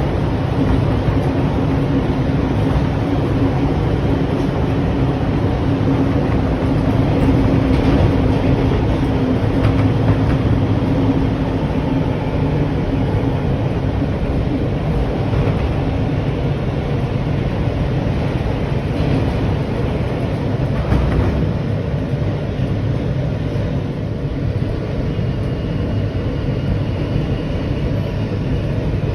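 New York City subway train running, a steady loud rumble with a low hum that fades out about halfway through.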